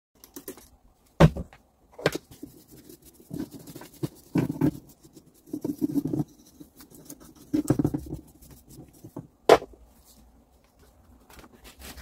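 Workbench handling sounds from taking apart and working on an angle grinder: a few sharp knocks, loudest about a second in and again near the end, between short rubbing and scraping bursts.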